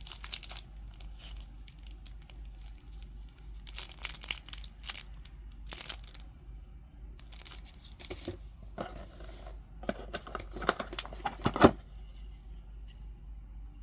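Product packaging being handled and torn open: irregular bursts of crinkling and tearing, with a sharp knock near the end.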